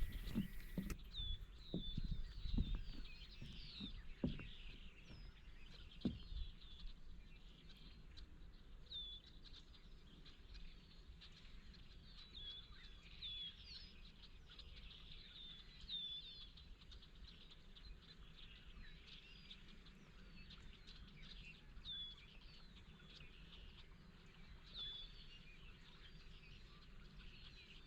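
Birds chirping outdoors: short, high chirps every second or two over a faint background. A few low knocks or thumps in the first several seconds.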